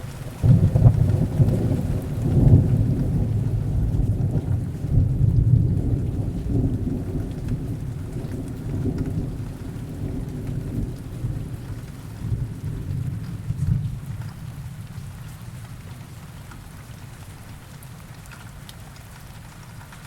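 A long low thunder rumble over steady rain: it breaks in suddenly about half a second in, rolls in several swells, and slowly dies away over about fifteen seconds, leaving the rain's even hiss.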